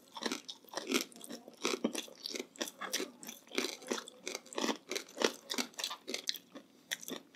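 Close-miked chewing with many sharp crunches, several a second, of crispy chicharon bagnet (deep-fried pork belly with rind).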